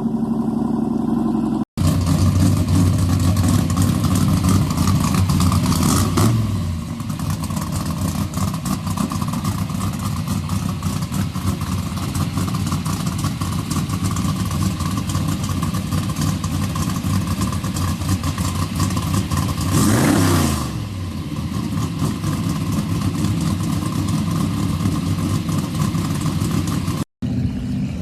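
Squarebody Chevrolet truck engine running hard and loud, its pitch dipping briefly about six seconds in and again about twenty seconds in before it climbs back.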